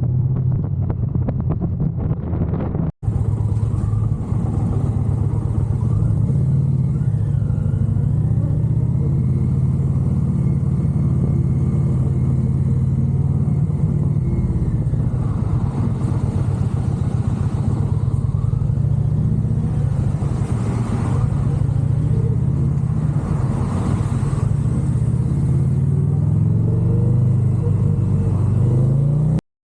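Motorcycle engine running steadily while riding, with a rush of wind and road noise; near the end the engine pitch climbs as it accelerates.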